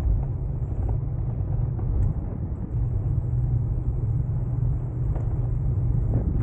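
Steady low rumble of a bicycle riding along a path, with wind on the microphone and tyre noise, and a few faint knocks from the bike.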